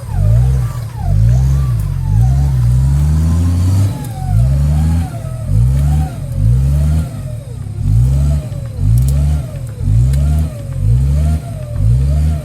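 Off-road vehicle engine revved hard in quick repeated bursts, rising and falling in pitch more than once a second, with one longer held rev about two seconds in.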